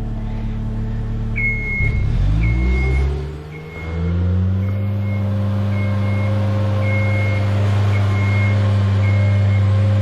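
Genie lift's engine speeding up from idle to a higher, steady speed as the lift is raised, with its motion alarm beeping about once a second.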